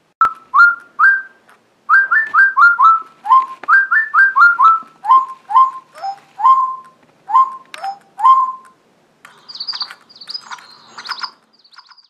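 Bird chirping: a quick run of short whistled notes that sweep upward, two to three a second, then a higher, harsher chattering near the end.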